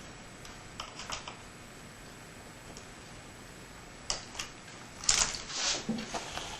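Light clicks and rattles of small laptop parts and screws being handled during disassembly: a few clicks about a second in, two more around four seconds, then a quick cluster of clicks and scraping near the end.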